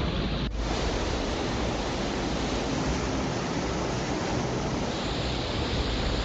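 Rushing floodwater: a steady, dense roar of water noise with no let-up, briefly broken about half a second in where the footage cuts.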